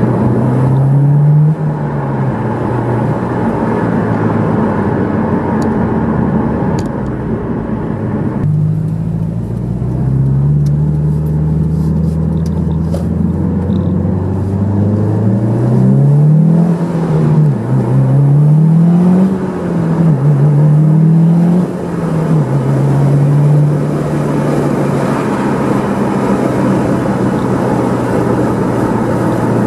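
Subaru WRX STI (VAB) with a Kakimoto aftermarket exhaust, its turbocharged EJ20 flat-four running. The pitch holds steady at first, drops back about eight seconds in, climbs slowly, then rises and falls several times in quick revs before settling steady again.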